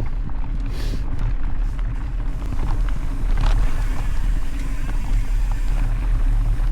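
Steady low rumble of wind buffeting the microphone of a camera riding on a moving mountain bike, with tyre noise from the dirt trail and a couple of faint clicks or rattles.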